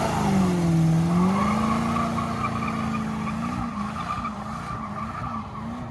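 Car engine revved high and held during a burnout, its pitch swinging down and back up, with tyres squealing. From about halfway through, the revs waver in quick dips about twice a second.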